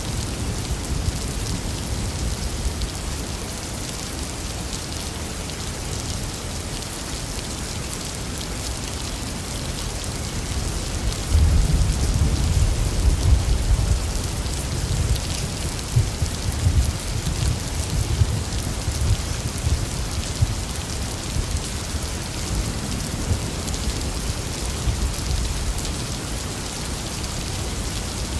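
Steady heavy rain hissing, with low thunder rumbling underneath that swells louder about eleven seconds in and rolls on in waves.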